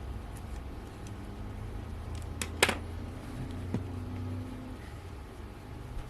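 Small lens parts and tools handled on a work surface: two sharp clicks close together about two and a half seconds in and a softer click a second later, over a low steady hum.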